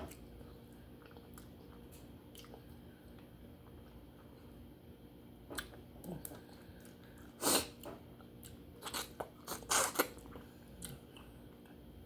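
Close-up mouth sounds of someone eating a baked duck head: quiet chewing, broken by a few sharp crunches and clicks in the second half, the loudest about seven and a half seconds in and again near ten seconds.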